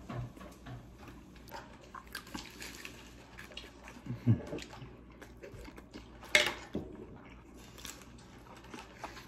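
Close-up chewing and biting of a crispy fried fish sandwich: many small crunching clicks, with a louder crunch about six seconds in.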